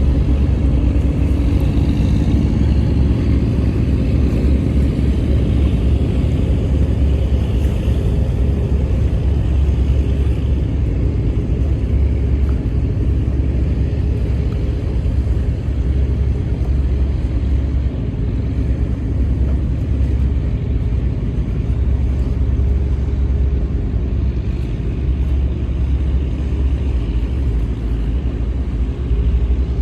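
Steady low rumble of a squid-fishing boat's engine running at a constant speed, with faint steady tones above the rumble.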